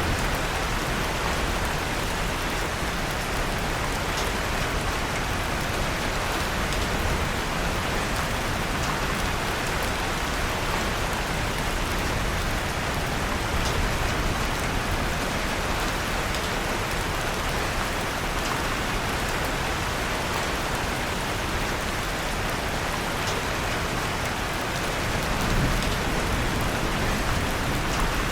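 Steady, even rain with a few faint crackles from a wood fire in a fireplace.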